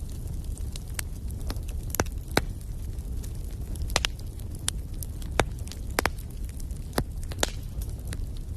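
Wood fire in a fireplace burning with a steady low rumble and irregular sharp crackles and pops, about one or two a second.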